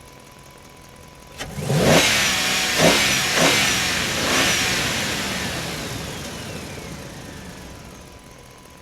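An engine revving several times in swooping rises and falls, starting suddenly after a click and then fading away over several seconds.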